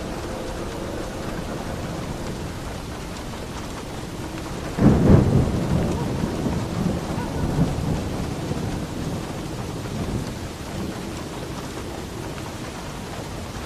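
Steady heavy rain on a roof, with a sudden clap of thunder about five seconds in that rumbles and dies away over the next few seconds.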